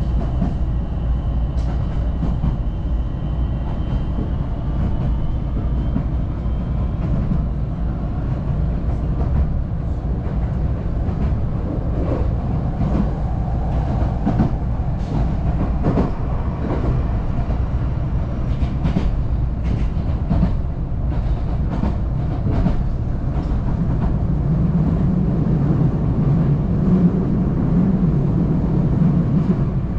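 Electric local train running along the line, heard inside the carriage: a steady rumble with scattered clicks of the wheels over rail joints. A faint high whine fades out in the first several seconds.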